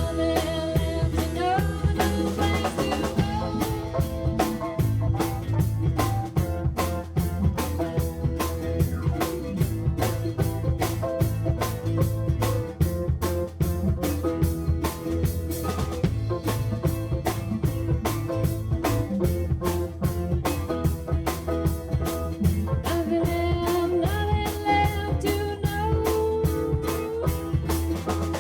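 Band music with a steady drum-kit beat over guitar and bass.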